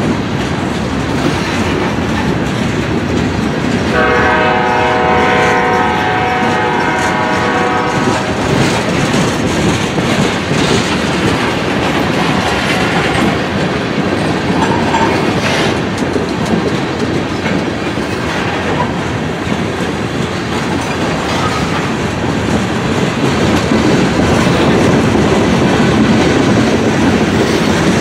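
Freight train rolling past close by, its steel wheels clattering over the rail joints with a steady rumble. About four seconds in, a locomotive horn sounds one steady chord for about four seconds.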